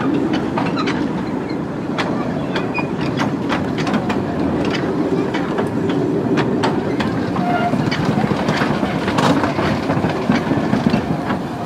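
Narrow-gauge train rolling past at close range: the open passenger coaches rumble and click irregularly over the rail joints. In the second half the Quarry Hunslet 0-4-0 tank steam locomotive comes by behind them.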